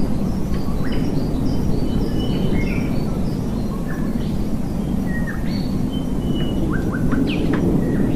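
Songbirds singing, many short chirps and quick whistled slides, over the steady low rush of a waterfall.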